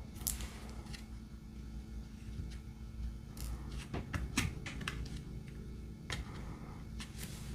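Light, irregular clicks and taps of a diamond-painting pen picking up resin drills from a tray and pressing them onto the sticky canvas, about half a dozen in all.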